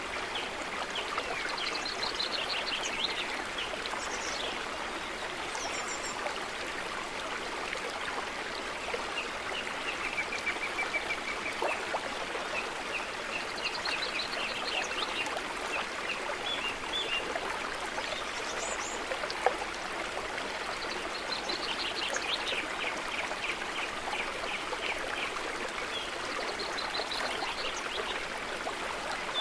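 Stream of running water with a steady burble, and small birds chirping and trilling over it every few seconds.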